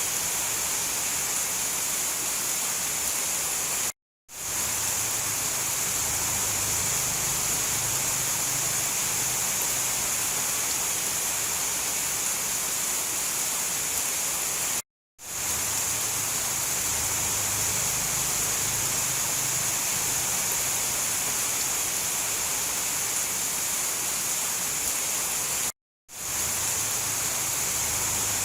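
Steady, even downpour of rain. It cuts out to silence for a moment three times, about every eleven seconds, where a looped recording restarts.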